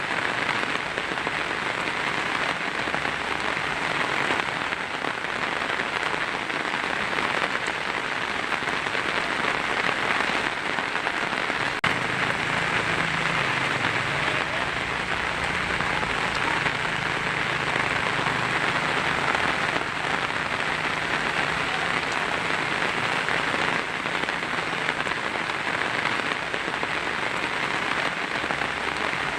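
Heavy rain drumming steadily on a tin roof: a dense, unbroken patter with no let-up.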